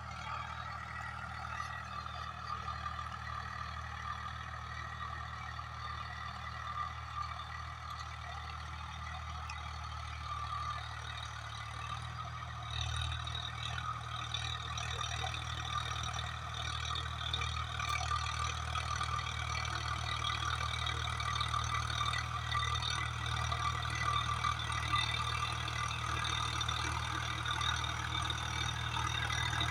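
Swaraj 744FE tractor's three-cylinder diesel engine running steadily, growing somewhat louder about halfway through.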